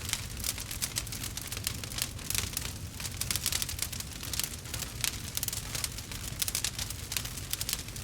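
Wood fire burning with a steady low rumble and dense, irregular crackles and pops from the burning wood.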